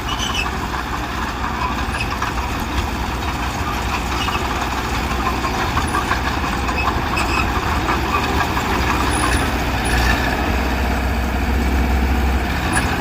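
Heavy diesel earthmoving machinery running steadily, with scattered light clanks over the engine. The engine grows a little louder for the last few seconds.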